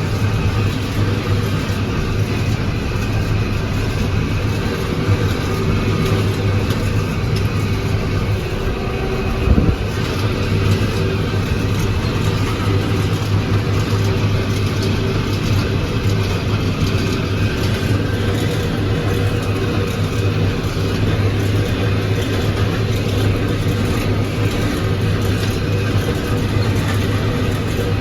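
McCormick MTX 150 tractor's diesel engine running steadily, with one short thump about ten seconds in.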